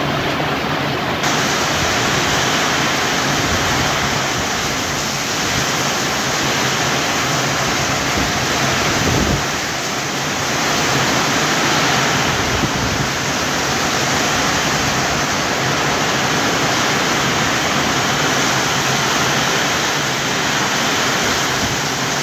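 Heavy rain pouring steadily, with much of it drumming on a sheet-metal roof overhead.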